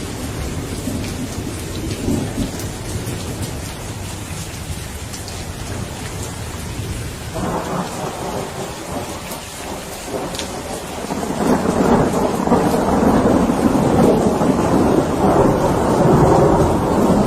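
Steady rain with a thunder rumble that rolls in about halfway through and swells louder toward the end.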